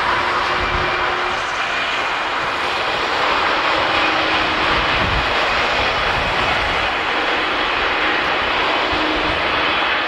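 Boeing 767-300ER's twin Pratt & Whitney PW4060 turbofans running as a steady jet rush, with faint steady tones over the noise.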